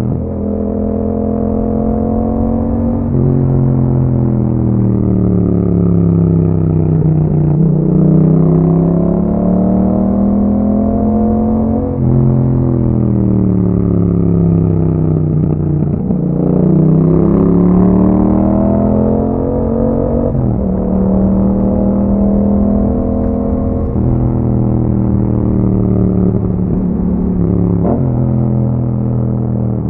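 Yamaha MT-07's parallel-twin engine through an Akrapovic exhaust, under way on the road. The revs fall and rise again several times, with sudden drops in pitch at gear changes.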